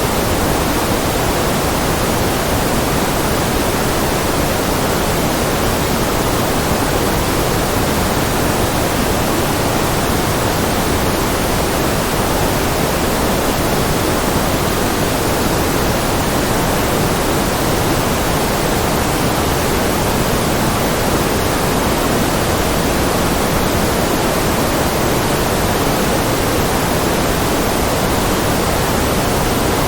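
Steady, unchanging synthetic noise, weighted toward the lower-middle range more than pure white noise, with no events or changes.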